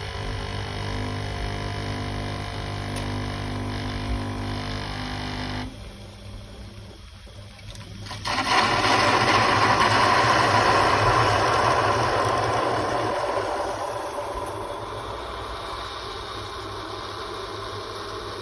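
Tassimo pod machine brewing hot chocolate: its pump hums steadily, then cuts out about six seconds in. After a short lull, a loud hissing rush starts about eight seconds in and slowly dies away as the brew cycle finishes.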